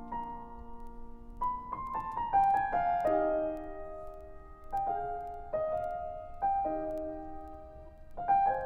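Background piano music: slow, soft chords and notes struck about every second and left to ring.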